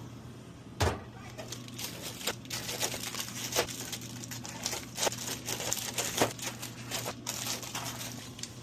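Plastic snack bags crinkling and rustling as they are handled, with scattered light clicks and a sharper knock about a second in, over a steady low hum.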